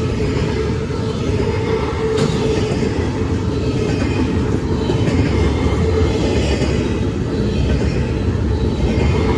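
A CSX double-stack intermodal freight train's well cars rolling steadily past, wheels running on the rails.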